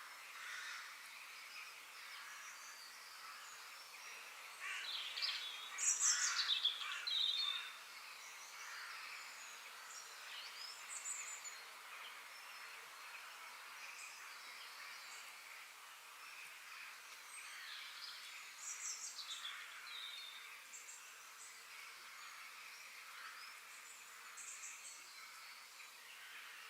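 Several birds chirping and singing over a steady high background hiss. One louder bird sings a burst of falling notes about five to seven seconds in.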